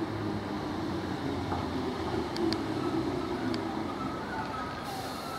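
Class 315 electric multiple unit running slowly into the station, with a steady low rumble of motors and wheels on the rails and a few faint high squeaks and ticks.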